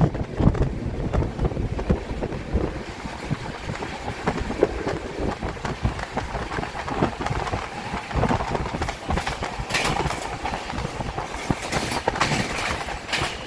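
Moving passenger train heard from a coach window: the wheels on the rails make a steady rumble and an irregular rattling clatter.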